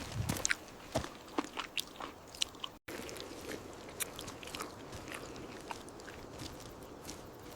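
Close-up biting and chewing of meat, with crisp crunches packed into the first few seconds. After a brief dropout about three seconds in, the chewing goes on more softly with scattered crunches.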